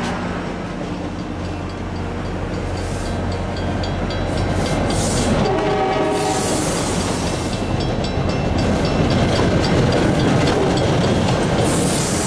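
MBTA commuter rail coaches rolling past close by: a steady rumble and clatter of wheels on the rails, with bursts of high hissing wheel noise. A brief train horn blast sounds about five to six seconds in.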